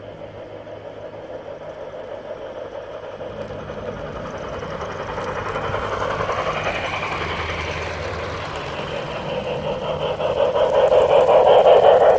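Model steam train on a garden railway running along its track, growing steadily louder as it approaches. It has a fast mechanical rattle that is loudest near the end.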